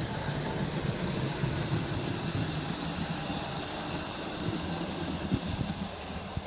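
Model railway locomotive running along the layout's track: a steady electric motor hum with wheel and rail noise, and a few sharp clicks over the rails near the end.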